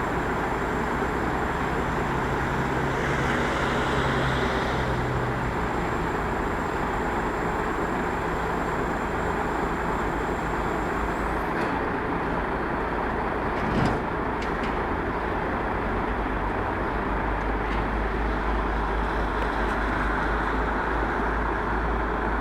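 Mobile crane's engine running steadily during a lift. A thin high whine stops about halfway through, and there is a short knock a little later.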